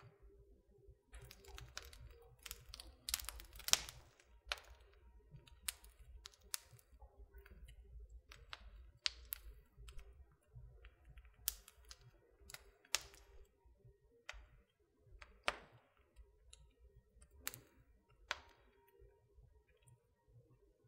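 Wood fire in a fireplace crackling, with irregular sharp pops and snaps, thickest in the first few seconds and loudest about four seconds in.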